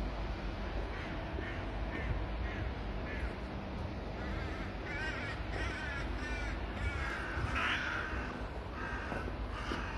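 Birds calling repeatedly outdoors: a run of short calls, a few at first and coming thicker from about five seconds in, over a low steady rumble.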